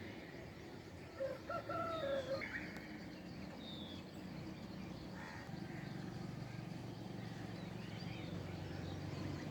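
A rooster crowing once, about a second in, followed by a few short high bird chirps, over a steady low background rumble.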